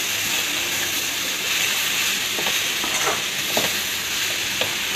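Soybeans and shredded vegetables sizzling as they fry in an aluminium kadai, stirred with a slotted metal spatula, with a few light clinks of the spatula against the pan in the second half.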